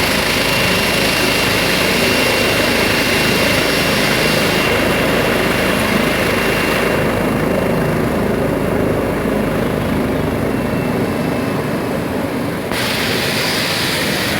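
Helicopter running close by: a loud, steady noise of rotor and engine. Its higher, hissing part fades for a few seconds past the middle and then cuts back in suddenly near the end.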